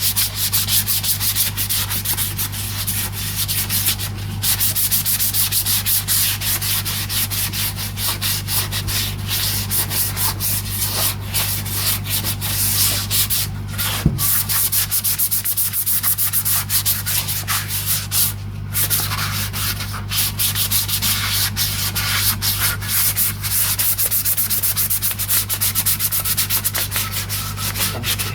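Sandpaper rubbed by hand over the grain-filled wooden body of a Fender Telecaster, sanding back the filler: a continuous scratchy hiss broken by many brief pauses between strokes. A low, steady hum runs underneath.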